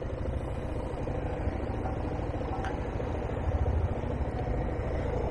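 Motorcycle engine running steadily, a dense low rumble with no clear rev changes.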